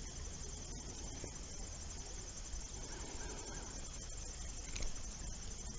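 Steady high-pitched chirring of insects over a low, even outdoor rumble.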